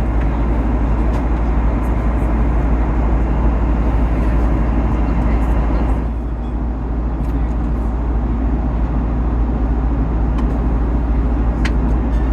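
Steady cabin noise of an Airbus A330-200 airliner in flight: an even, loud rumble and rush of air, dropping a little about six seconds in, with a few faint clicks near the end.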